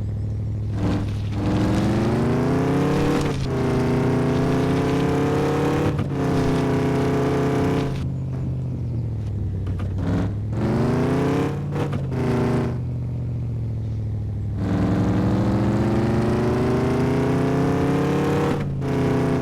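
A truck's engine pulling hard through the gears: the revs climb, drop at each upshift and climb again, over a steady low exhaust drone. Two runs of shifts, each ending in a pause with the revs settled low.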